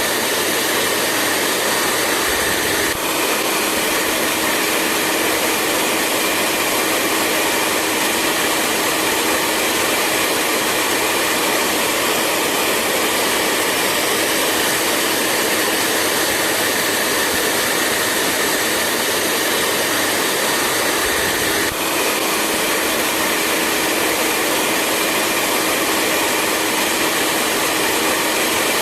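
Hair dryer running steadily, a constant rushing blow of air with a faint whine over it. The whine shifts in pitch with a tiny dip in level about three seconds in and again near twenty-two seconds.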